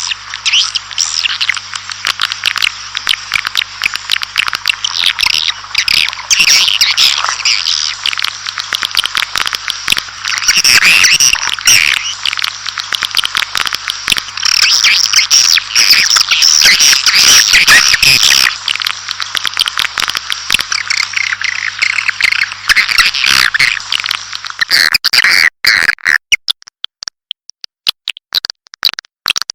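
Swiftlet calling sound: dense, continuous twittering and chirping of many swiftlets, a lure call played to draw swiftlets into a nesting house. About 25 seconds in, the twittering thins to scattered sharp chirps.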